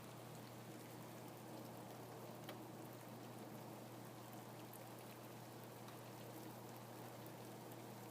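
Faint, steady rain, with scattered single drops ticking now and then.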